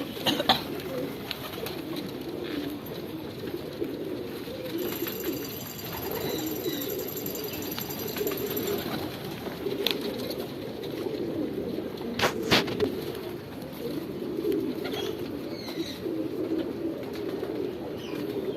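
Domestic pigeons cooing steadily, many birds overlapping, with a few sharp knocks now and then.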